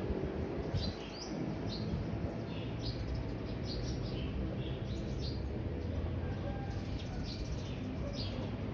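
Birds chirping: short, high, downward-sliding chirps repeated irregularly several times a second, over a low steady background rumble.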